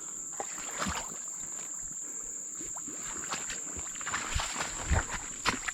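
Footsteps squelching and splashing through mud and shallow water, irregular thuds that come more often in the second half. A steady high-pitched insect trill runs underneath.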